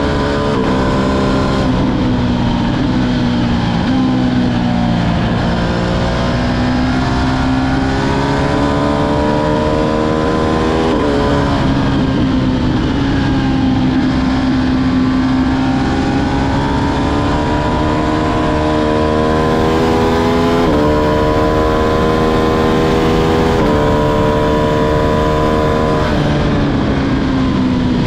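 Ducati Streetfighter V2's 955 cc Superquadro V-twin pulling hard through the gears. The engine note climbs and drops sharply at upshifts several times, with a couple of slower dips where the throttle eases off.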